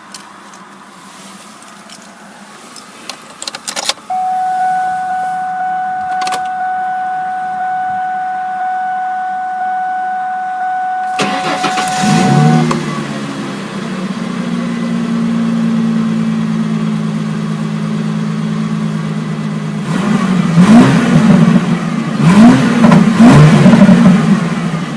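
2000 Ford Mustang engine cranked by the starter and catching at about 12 seconds in with a brief flare, then idling steadily; near the end it is revved three times. Before the start, a few clicks are followed by a steady warning chime tone lasting about eight seconds.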